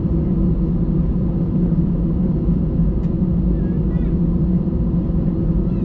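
Steady rumble and hum of an Airbus A320's jet engines and airflow, heard from inside the passenger cabin.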